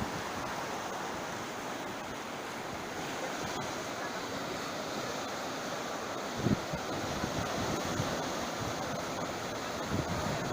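Sea surf washing on the shore, with wind on the microphone. A brief low thump comes about two-thirds of the way through.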